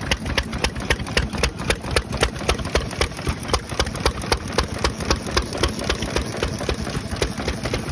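Izushi stationary kerosene engine running steadily, its exhaust beating in an even rhythm of sharp knocks, about five a second.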